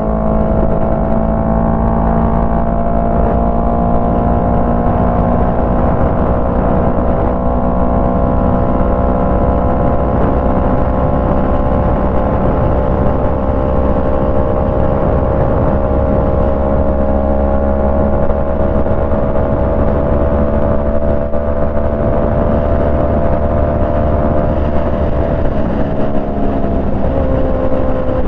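Yamaha MT-03 motorcycle engine through a Jeskap full exhaust, running steadily under way with its pitch slowly rising, then dipping and wavering near the end.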